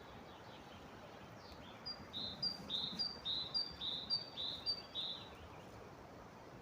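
A bird calling: a two-part note, a short high note dropping to a slightly lower one, repeated six times in about three seconds, over a steady background hiss.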